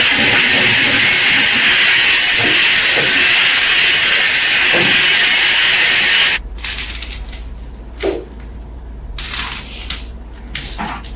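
A pressurised spray hisses loudly and steadily, then cuts off suddenly about six seconds in. After that a low hum remains, with a few short brushing or scraping sounds and a knock.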